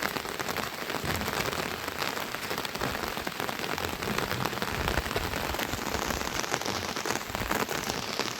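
Steady rain falling, with many small drops striking close by.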